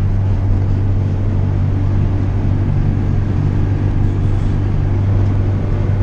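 A car driving at a steady pace, its engine and road noise making a constant low drone with no change in pitch.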